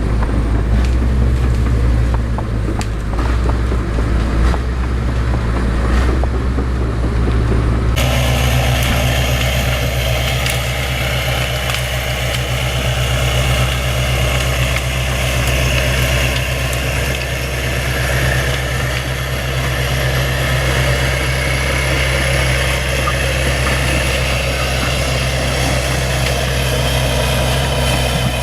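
A bulldozer's diesel engine running steadily under load, a deep low drone. About eight seconds in the sound changes abruptly to a different take of the same engine noise.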